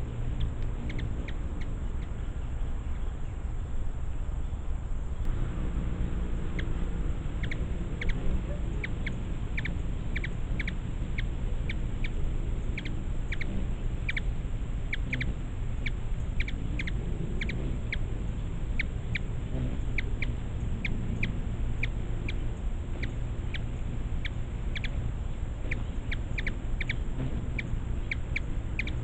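A bird giving short, sharp chip notes over and over, about one or two a second, starting about five seconds in, over a steady low rumble.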